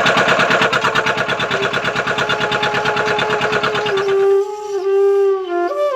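Old Petter diesel engine chugging in quick, even beats for about four seconds, then dropping out. A flute melody plays over it and carries on alone after it stops.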